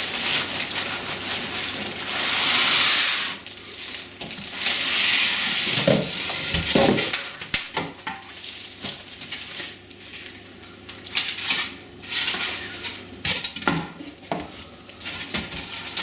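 Cardboard box and packing being handled while a dehumidifier is unpacked: irregular rustling and scraping, with a few knocks around six to seven seconds in and again near the end.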